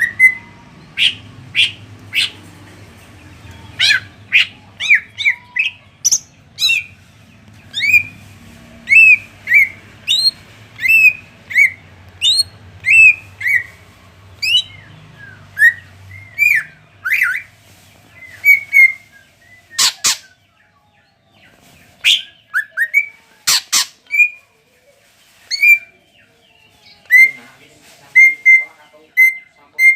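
Cucak ijo (green leafbird) singing a rapid string of short, sharp whistled notes and sweeping chirps, with a few very loud piercing notes in the middle, the sharp bursts that bird keepers call 'tembakan'.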